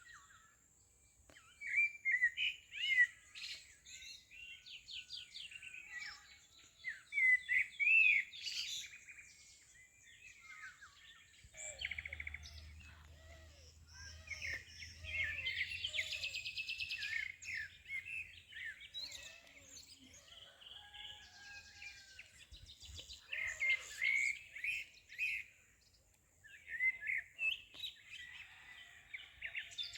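Several small birds chirping and singing in quick, overlapping calls and trills, with a lower, repeated call joining in partway through.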